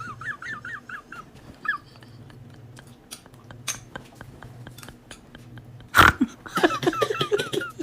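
A dog giving quick, high, wavering cries, several a second, in two bouts, with a loud sharp knock about six seconds in.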